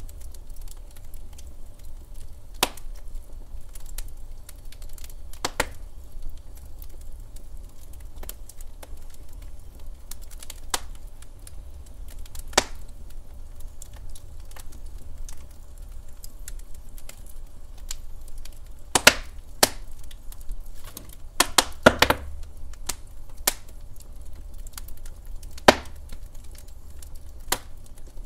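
Wood fire crackling in a fireplace: scattered, irregular sharp pops and snaps over a low, steady rumble, with a quick run of louder pops about two-thirds of the way through.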